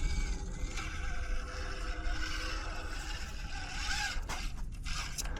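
Small electric motor and gears of an Axial SCX24 1/24-scale RC crawler whining as it crawls, with a short rising whine about four seconds in.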